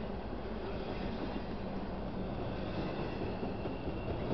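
Double-stack intermodal well cars of a freight train rolling past close by: a steady noise of steel wheels on rail.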